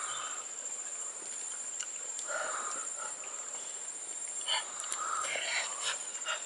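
Chewing and lip-smacking with breathy exhales as a man eats roasted sweet potato. Sharp wet clicks come in a cluster in the second half. Behind it runs a steady high insect drone.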